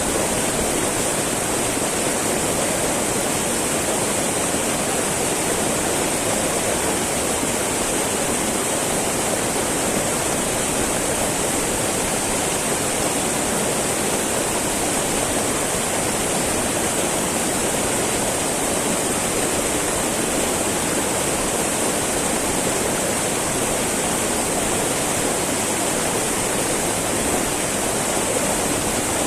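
Small mountain river babbling over rocks, a steady, unbroken rush of water with a hiss in the highs.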